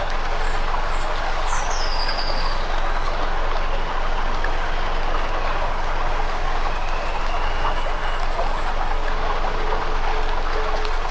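Campfire crackling steadily, a dense stream of small pops and snaps. A brief high chirp slides downward about two seconds in.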